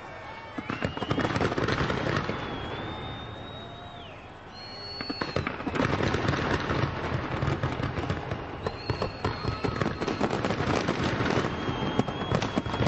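Aerial fireworks display: rapid bangs and crackling, with several whistling shells that rise in pitch and hold a high note. The firing eases briefly about four seconds in, then returns as a dense barrage of bangs and crackles.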